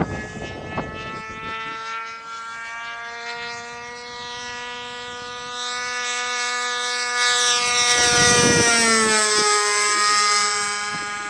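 RC model airplane's motor whining as it flies low past. It gets louder from about six seconds in, and its pitch drops as the plane passes closest, then it eases off a little.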